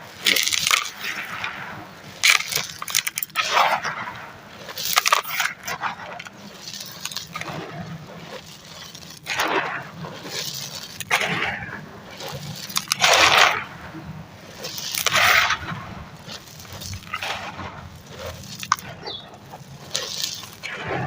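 Crunchy, powdery ash-textured material being crushed and crumbled, a series of gritty crunches every second or two with small crackles between.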